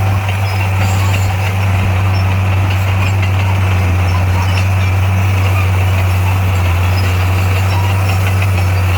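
Diesel engine of a Komatsu D58A bulldozer running at a steady, even pitch.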